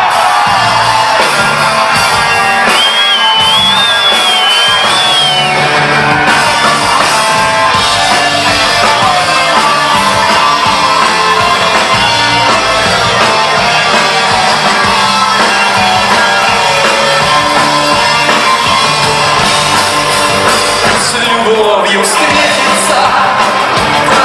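Live rock band playing loud, with singing and shouts from the crowd in a club hall. A high wavering note rides over the music from about three seconds in for a couple of seconds.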